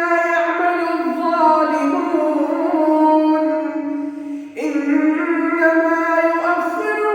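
Quran recitation in maqam Saba: a single voice chanting verses melodically in long, held, ornamented notes. It breaks briefly for breath about four and a half seconds in, then begins the next phrase.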